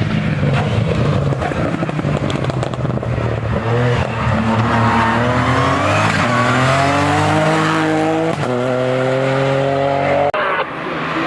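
Race car engine accelerating hard, its pitch climbing through the revs, dropping sharply at a gear change and climbing again. The sound changes abruptly just after ten seconds in.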